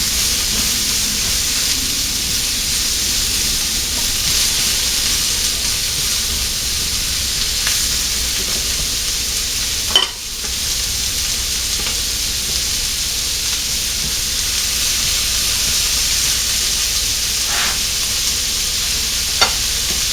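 Chopped garlic, onion, celery and carrot frying in oil in the base of an Emile Henry tagine, a steady sizzle. A brief knock about halfway through and a couple of small clicks near the end, likely from stirring the vegetables.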